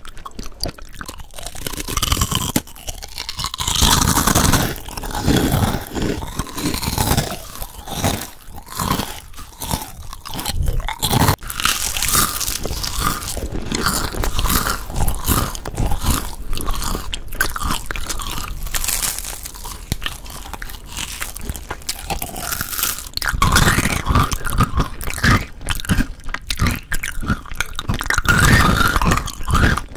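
Close-miked ASMR eating sounds: crunchy bites and chewing, made up of several clips spliced together with sudden changes a few seconds in, about eleven seconds in and near 23 seconds.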